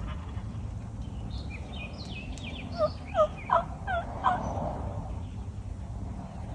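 A turkey call worked by a hunter, giving a short run of about five hen-turkey yelps, each a quick note dropping in pitch, about three seconds in.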